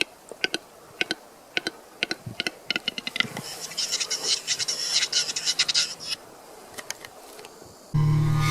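A bird's harsh call: a run of sharp clicks, then a dense scratchy, rasping chatter lasting a couple of seconds. Music with steady held tones starts near the end.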